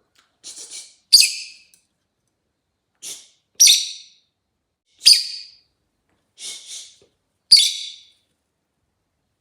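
Rosy-faced lovebird calling: four loud, sharp high chirps about a second and a half to two and a half seconds apart, three of them led in by a softer, quick chatter.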